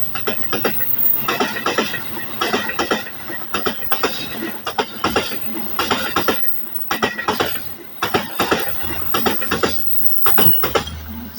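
Passenger train cars passing, their wheels clattering over rail joints in a fast, uneven run of clicks and knocks over a steady rolling rumble.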